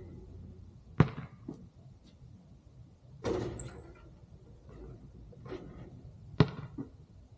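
A basketball striking hard, twice about five seconds apart, each sharp hit followed by a lighter second bounce. A short noisy rush comes between the two.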